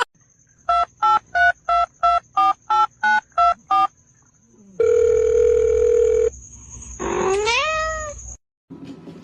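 A telephone number being dialled: about ten short two-note keypad beeps in quick succession, then a steady tone on the line for about a second and a half. Near the end a cat meows once, rising in pitch.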